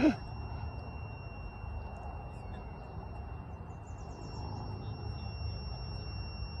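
Outdoor ambience: a low, steady wind-like rumble with a faint steady high-pitched tone, and a few faint bird chirps around the middle.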